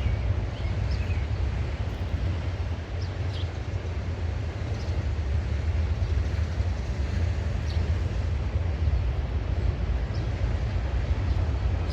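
Freight train passing, a steady low rumble throughout.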